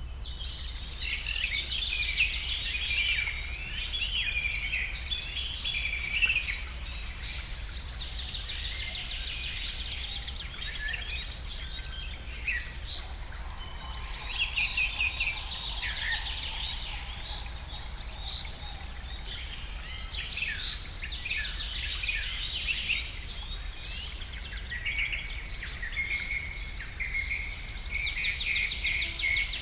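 Several small birds singing and chirping over one another, with rapid trills and short whistled notes, over a steady low rumble.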